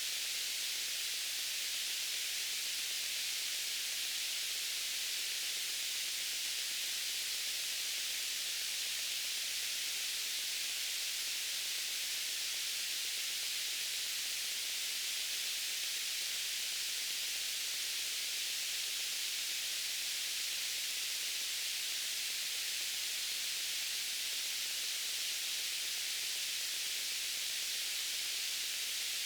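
Steady white noise: an even, unchanging hiss that sits mostly in the upper frequencies.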